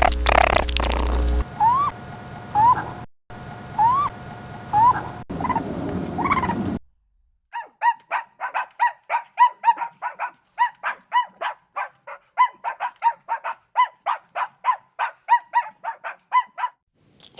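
Music cuts off about a second and a half in. A bird then gives several short, rising call notes, followed by a long run of short repeated notes, about four a second.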